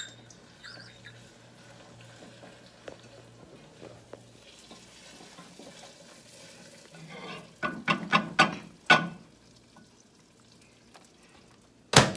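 Spoon stirring butter into the peanut brittle candy mixture in a bowl, mostly soft. About eight seconds in, a quick run of clacks of the spoon against the bowl, and one sharp knock near the end.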